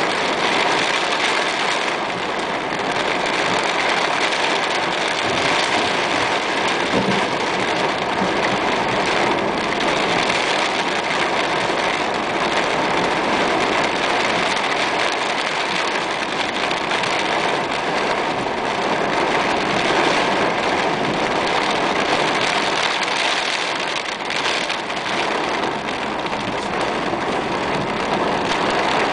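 Heavy rain falling steadily on a car's roof and windscreen, an even, unbroken hiss.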